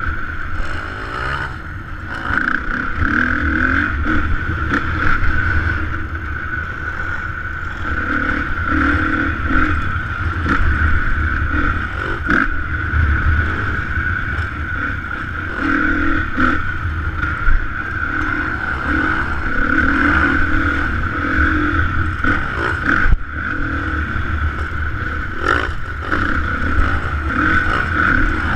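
Motocross dirt bike engine running steadily, with occasional sharp knocks and clatter.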